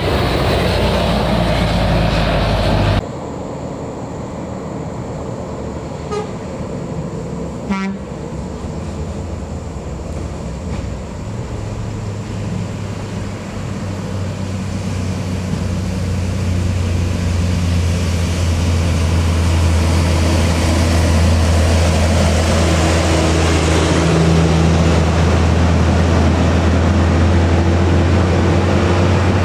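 Heavy truck diesel engine running under load, a steady low drone that grows louder from about halfway through as the truck draws nearer. The sound changes abruptly about three seconds in.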